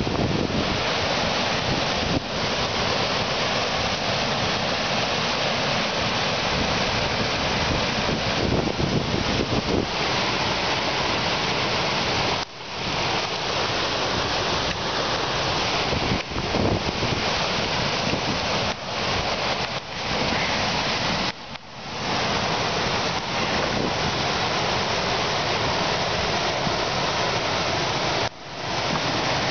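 Steady rush of river water, with wind noise on the microphone, cutting out briefly a few times.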